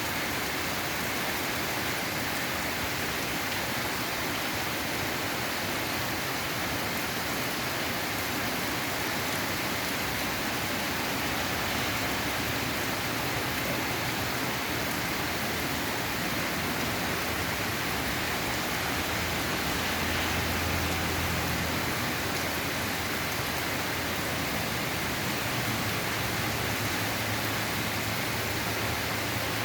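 Steady rain falling, an even hiss of rain on surfaces with no break. A faint low rumble joins in about two-thirds of the way through and again near the end.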